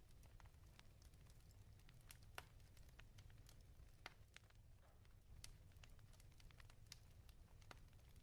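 Faint wood fire crackling in a fireplace: irregular small snaps and pops, a few louder than the rest, over a steady low rumble.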